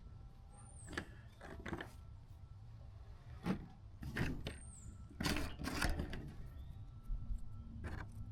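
Scattered knocks, clicks and scraping of small parts being handled and worked on, busiest in the middle, over a low steady hum.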